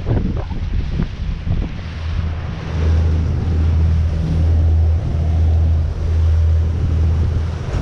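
Wind buffeting the microphone on a moving boat. From about three seconds in, a steady low engine drone with a slight pulse comes up over the wind.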